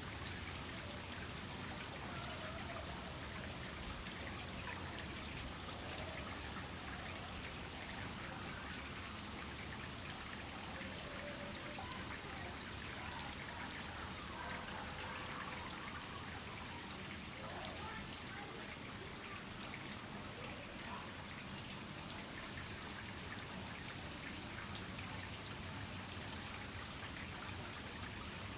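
Heavy rain falling steadily, with water trickling and running off. Faint voices murmur underneath, and there is a single sharp tick about two thirds of the way through.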